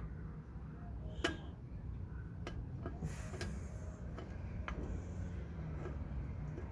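Sharp metallic clicks and taps from hands and tools working a drum brake's shoe return spring and shoes into place, the loudest click about a second in, with a short scrape around three seconds.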